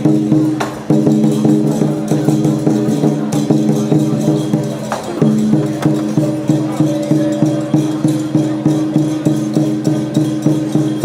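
Lion-dance percussion music: drum, gongs and cymbals beating a steady, fast rhythm of about two to three strokes a second, with a few sharper cymbal crashes.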